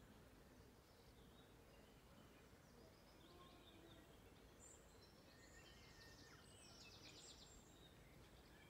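Faint outdoor background with small birds chirping now and then, and a brief rapid trill about six seconds in.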